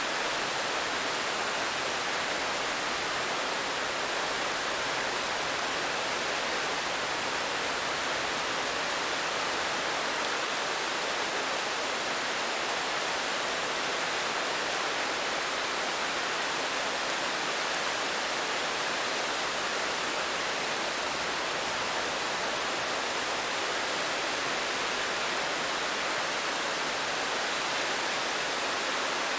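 Steady, even rainfall hiss with no separate drops or thunder standing out.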